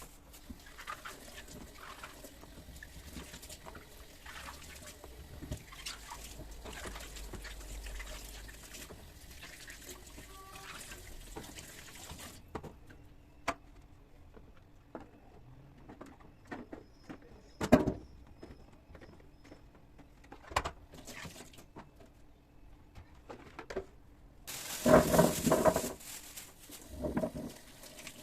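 Quiet handling sounds: scattered light clicks and knocks. There is one sharper knock about two-thirds of the way through and a louder burst of sound near the end.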